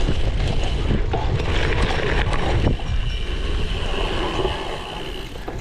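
Wind buffeting the microphone of a camera on a cyclocross bike during a race, with the bike rattling and knocking over rough ground.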